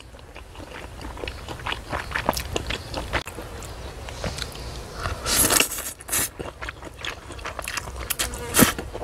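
Close-miked eating sounds: chewing chewy conch meat and noodles with small wet clicks of the mouth, and a louder burst about five seconds in as a chopstick load of noodles is slurped in.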